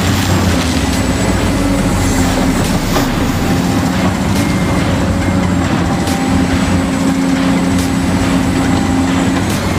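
A machine running steadily with a low hum and irregular sharp clicks, like a train rolling over rail joints.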